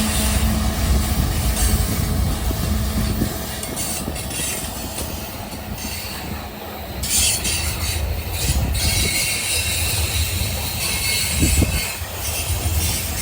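Freight train rolling past: a steady low rumble of wheels on the rails, with a high hiss riding over it that dips briefly about halfway through.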